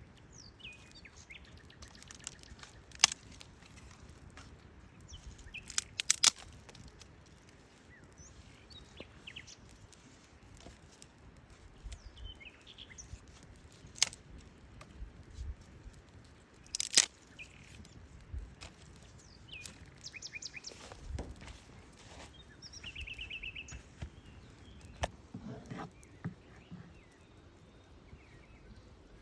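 Wild forest birds chirping and singing, with a short fast trill near the end. A handful of sharp cracks or knocks cut through as the loudest sounds.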